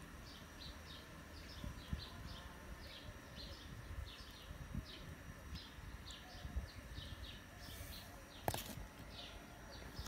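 Small birds chirping over and over, short high chirps a couple of times a second, over a low steady rumble; a single sharp knock about eight and a half seconds in.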